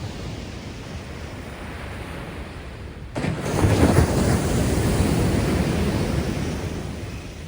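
Rough, storm-swollen sea surf: a steady wash of waves, then about three seconds in a large wave breaks suddenly on the shore and its rush swells and slowly dies away.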